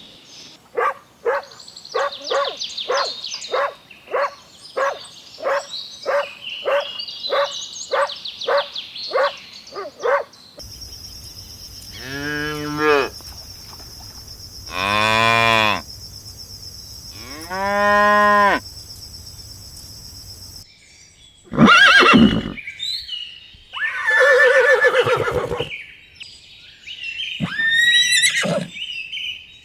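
Farm animal calls in separate cuts. A run of short, evenly repeated calls with birds chirping is followed by three long moos from cattle, each about a second and a half, over a steady high whine, and then a few shorter mixed animal calls.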